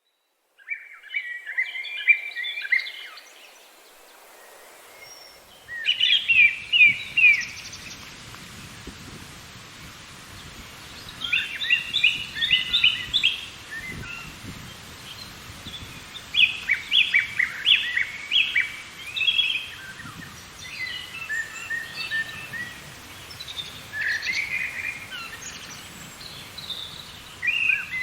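Songbird singing short, fast chirping phrases that repeat every few seconds, over a faint steady hiss. The song starts about a second in.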